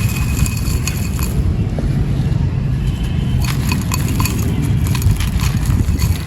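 Dry, gritty clay and sand pieces crushed and crumbled by hand close to the microphone: a steady crunching rumble with many small sharp crackles of grains breaking.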